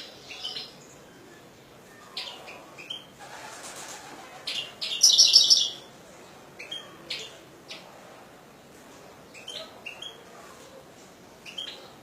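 European goldfinch singing: scattered short, high chirping notes, with a loud, rapid twittering run about five seconds in.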